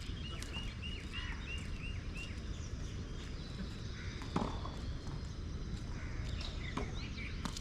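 A bird gives a quick run of about nine short repeated chirps in the first two seconds. About four seconds in comes a single sharp crack of a tennis ball struck by a racquet. A steady low background noise runs under both.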